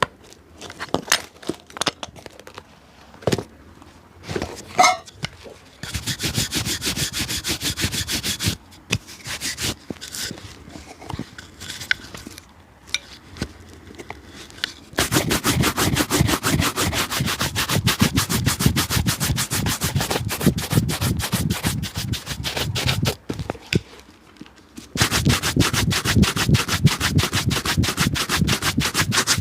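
Rapid back-and-forth rubbing strokes on a leather shoe during a shoe shine, after a few scattered taps and clicks. The rubbing comes in long runs, the longest through the middle, with brief pauses between them.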